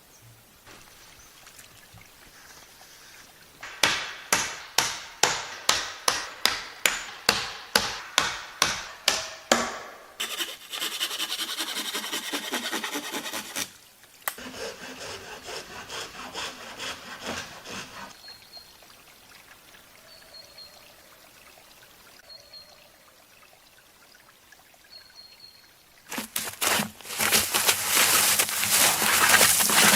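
Hand saw cutting wood, a steady run of strokes about two and a half a second, followed by longer stretches of rasping and a louder, busier spell near the end.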